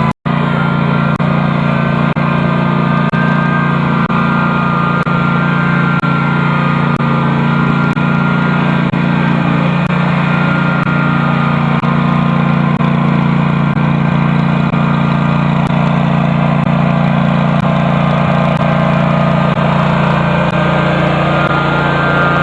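Custom John Deere garden tractor engine running steadily, pulling a plow, with a brief break just after the start.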